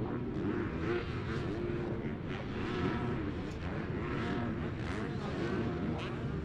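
A pack of off-road motocross bikes racing together, many engines revving up and down over one another as the riders work the throttles.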